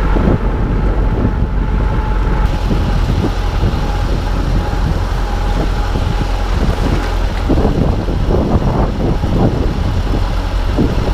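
Tractor engine running steadily under way, with irregular knocks and rattles over the low engine note.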